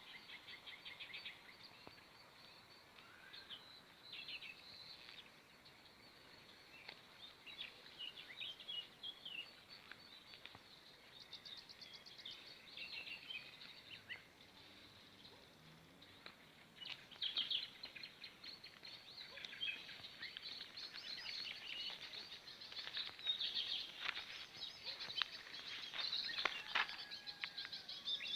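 Small songbirds chirping and twittering in short, scattered calls over a faint hiss, growing busier about halfway through.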